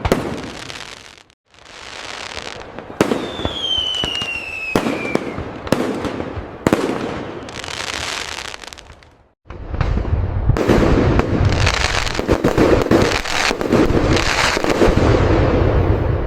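Fireworks display: separate aerial bursts, each trailing into crackle, with a falling whistle a few seconds in; from about ten seconds in, a dense barrage of overlapping booms and crackling.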